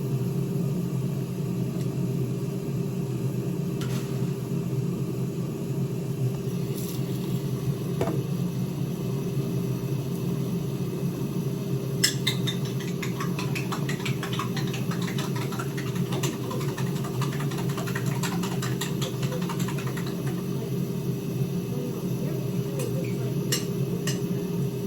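Cooking in a kitchen over a steady low hum: from about halfway through, a spoon or spatula clatters and scrapes against a pan in quick clicks for several seconds, then a few more clicks near the end.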